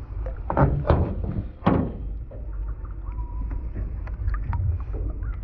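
Three loud thumps against a jon boat in the first two seconds, then a low steady rumble with a few faint knocks.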